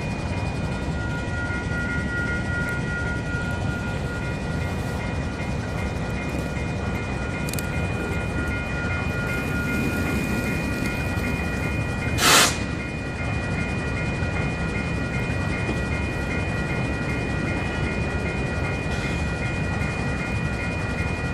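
Level-crossing warning bell ringing in a fast steady repeat over the low rumble of a stopped freight train. About twelve seconds in there is one short, loud hiss.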